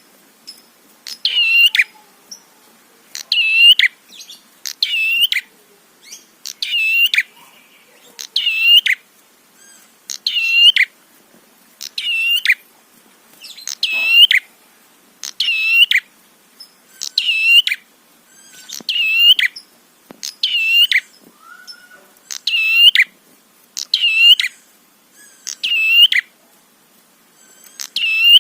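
Prenjak (prinia) singing its loud, high, chattering phrase over and over, a new burst of quick sharp notes about every second and a half to two seconds.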